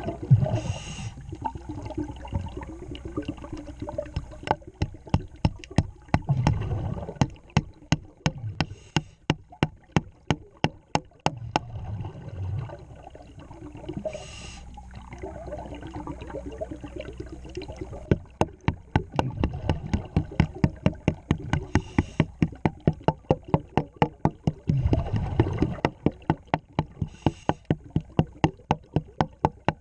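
Underwater sound from a diver at work on a boat hull: a scuba regulator's exhaust bubbles rush out every few seconds, over a steady run of sharp, regular clicks, about three or four a second.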